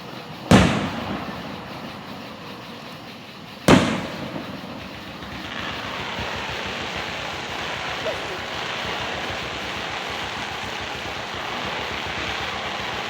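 Two aerial fireworks bursting about three seconds apart, each a sharp bang with a short echoing tail, followed by a steady hiss of background noise.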